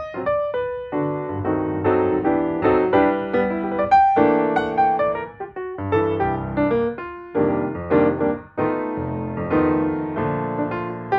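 Background music: a piano playing a melody over chords, one struck note after another.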